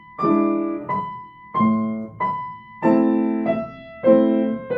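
Piano played slowly, a new note or chord struck about every half second to second, each left to ring and fade.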